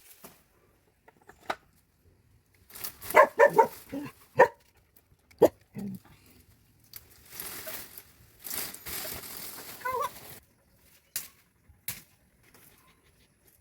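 A dog barks several times in quick succession about three seconds in. Around the barks come single sharp knocks of a machete chopping through bougainvillea branches, and a few seconds of rustling branches and leaves near the middle.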